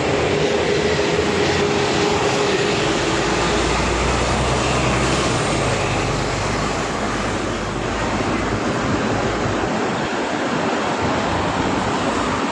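Street traffic noise in the rain: a steady hiss with the rumble of vehicles going by, one swelling and passing about halfway through.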